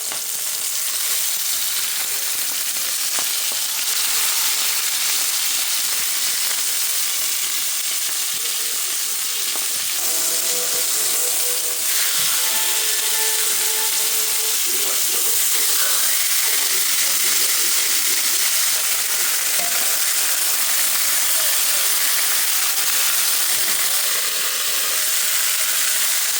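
Chicken skin frying in hot fat, a steady dense sizzle with fine crackling as the skin crisps.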